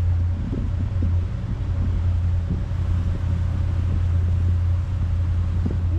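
Motorboat engine running steadily underway, a low continuous drone, with the rush of wind and water over it.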